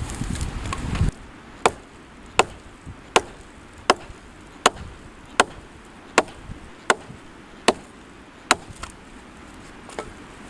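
Steady chopping strikes of a blade into hard cherry wood being split for firewood, about one every three-quarters of a second, around ten in a row, with one weaker blow near the end. A low rumble fills the first second.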